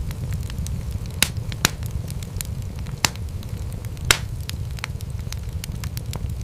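Wood fire crackling in a fireplace: irregular sharp pops and snaps over a steady low rumble, with the loudest pops a little over a second in and again about four seconds in.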